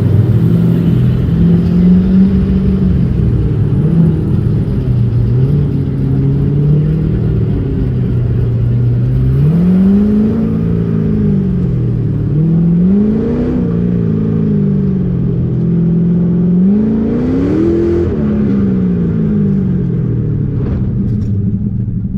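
LS7 V8 in a custom tube-chassis 1963 Corvette on an autocross run, pulling hard and then easing off, its pitch climbing and dropping several times in quick swoops in the second half as it accelerates out of corners and lifts for the next.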